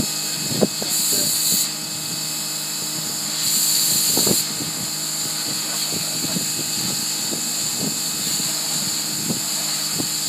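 Campbell Hausfeld PW1835 electric pressure washer spraying, its instant-on pump and motor running with a steady hum under the hiss of the water jet. The hiss swells briefly twice, about a second in and again around four seconds.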